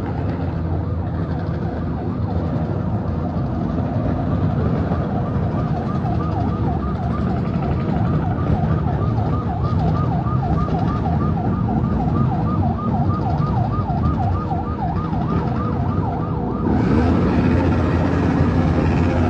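Escort siren yelping, its pitch sweeping quickly up and down about three times a second, over a dense rumble of traffic engines and crowd noise; the sound grows fuller and louder near the end.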